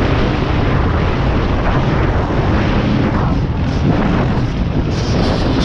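Motorcycle engine running under way, with wind noise on the microphone, making a loud, steady, dense noise.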